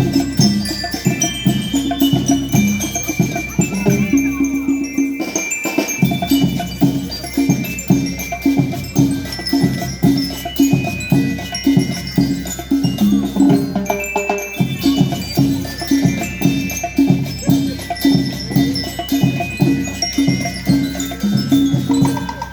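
A school rhythm band playing: bell lyres ring out a melody of high metallic notes over a steady march beat on drums, about two beats a second. The drums drop out briefly around five seconds in.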